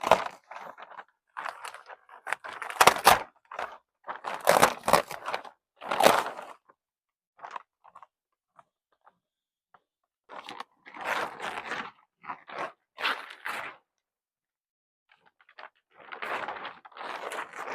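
Plastic sheeting crinkling and rustling as it is handled, in irregular bursts with pauses between.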